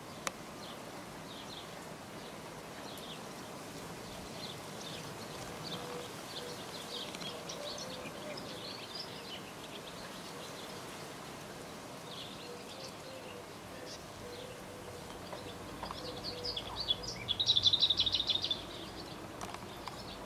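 Small birds chirping now and then over steady outdoor background noise. Near the end, a loud, fast chattering trill lasts about a second and a half.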